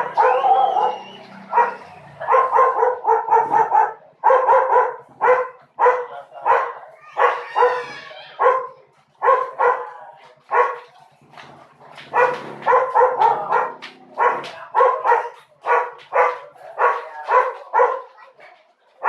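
Pet dog barking over and over in quick runs of short barks, with a brief wavering higher cry about halfway through.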